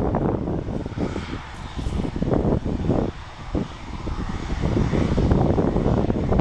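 Airliner engines running loud during a takeoff or landing pass, with gusty wind buffeting the microphone in irregular low rumbles.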